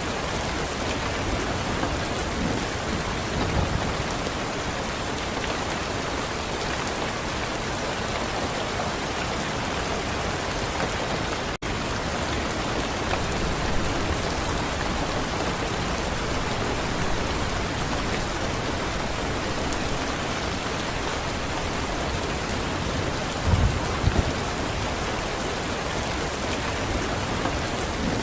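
Steady, even rain falling, with a couple of brief low thumps near the end. The sound cuts out for an instant about twelve seconds in.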